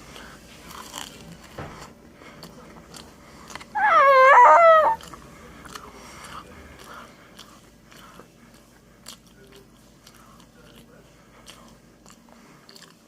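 Close-up biting and chewing of food, heard as many small crunchy clicks and mouth noises. About four seconds in, a loud, high-pitched voiced sound wavers in pitch for about a second.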